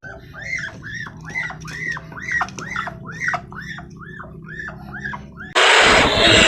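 An animal giving a quick series of short calls, each rising and then falling in pitch, about two to three a second. A sudden loud, harsh rushing sound cuts in near the end.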